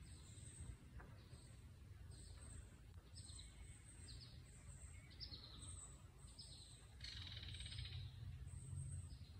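Faint birdsong: short high chirps repeating about every half-second, several falling calls, and a buzzy trill about seven seconds in, over a low steady rumble.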